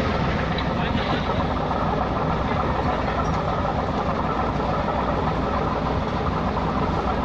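Cummins diesel engine running steadily at an even, unchanging level.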